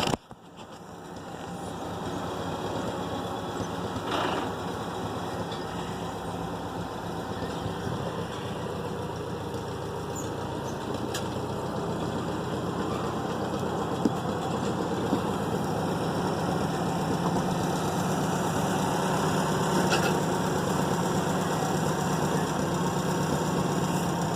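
Tractor engine running steadily. The sound drops away at the very start and builds back up over about two seconds.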